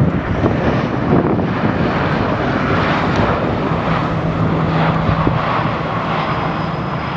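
Airbus A320 jet engines running as the airliner lands, a loud steady rush with a steady low hum joining in the second half.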